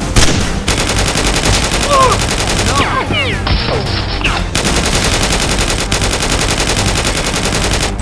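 Rapid automatic gunfire, a fast even stream of shots that sets in just under a second in and keeps going, with a few short cries between about two and four and a half seconds in.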